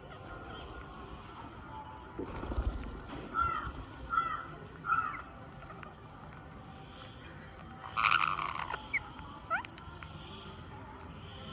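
Rose-ringed parakeets calling: three short calls a little over three seconds in, then a louder harsh screech about eight seconds in followed by a few quick rising calls. A low thump comes around two and a half seconds in.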